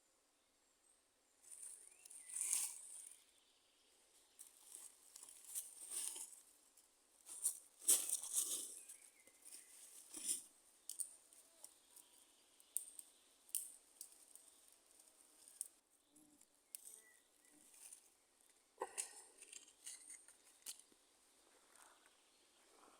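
Dry leaves and twigs rustling and crackling in irregular bursts, with sharp snaps and clicks, louder about two and a half seconds in, around eight to ten seconds in, and again near nineteen seconds.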